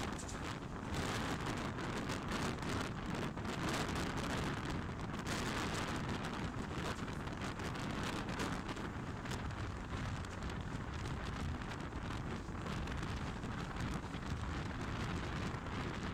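Class S11 diesel multiple unit running at speed: a steady rush of wheel-on-rail and wind noise, with frequent small clicks and rattles.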